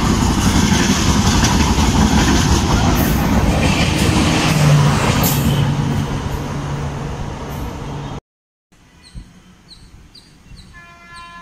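Express train of LHB passenger coaches passing close at speed: loud rushing and rail clatter that slowly fades as the last coach goes by. After a sudden cut about eight seconds in, it is much quieter, and a distant train horn sounds as a steady chord near the end.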